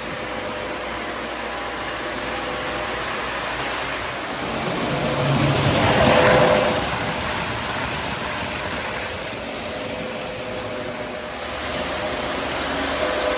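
Lionel O gauge Baltimore and Ohio diesel AB set running on a layout: its RailSounds 5.0 diesel engine sound plays steadily over the rumble of the wheels on the track. It grows louder around six seconds in, then eases back.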